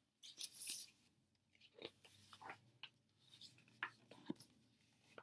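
Paper rustling and crinkling as a picture book's pages are handled and turned, with the loudest rustle about half a second in, followed by several shorter rustles and clicks.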